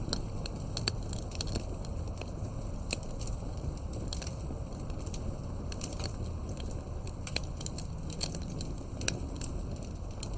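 Campfire crackling: frequent irregular sharp pops and snaps over a steady low rumble of burning wood.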